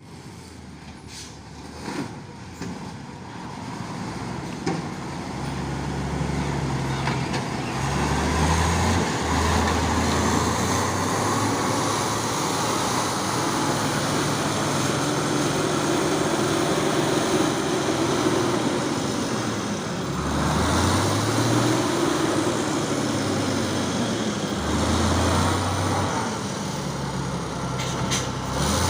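Heavy truck's diesel engine working under load, growing louder over the first several seconds, then revving up and easing off several times.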